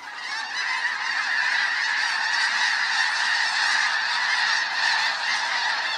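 A huge flock of snow geese in flight, all calling at once: a dense, unbroken din of overlapping honks that swells over the first second and then holds steady.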